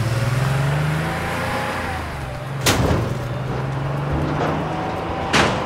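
Cartoon car engine sound effect running in a steady low drone, with two sharp knocks, one about two and a half seconds in and one near the end.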